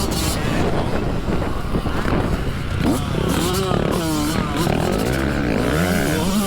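Dirt bike engines revving up and down as they are ridden, the pitch rising and falling with each throttle change, with more than one bike heard at once in the middle.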